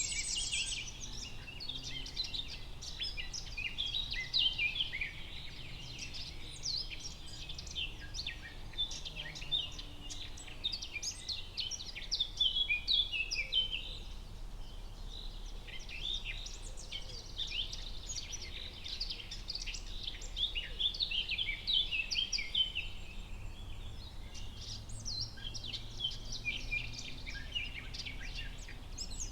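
Forest ambience: a dense chorus of many songbirds chirping and calling at once, over a low steady background noise.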